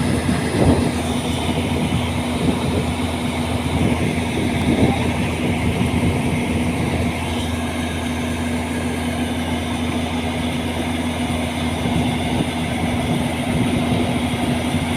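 Wheat combine harvester running steadily: a constant machine drone with a steady hum, and a few brief clattering knocks about a second in and again near the five-second mark.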